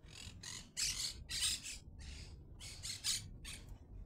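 A bird giving a series of short, harsh squawks, about two a second.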